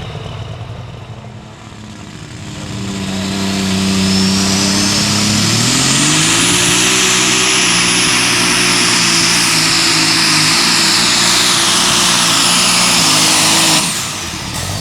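Turbocharged super stock pulling tractor engine at full throttle down the track, with a high turbo whine climbing as the engine builds speed. The engine runs flat out for several seconds, then cuts off suddenly near the end as the pull ends.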